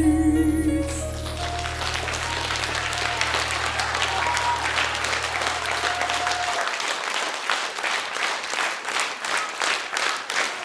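The song's final chord cuts off about a second in, and an audience breaks into applause. A low bass note holds on under the clapping until about two-thirds of the way through. Near the end the applause turns into rhythmic clapping in unison, about three claps a second.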